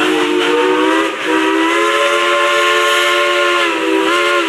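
Steam locomotive whistle of Engine 192 blowing a chord of several tones: a short blast, a brief break about a second in, then a long held blast that sags in pitch for a moment near the end, over a steady hiss of steam.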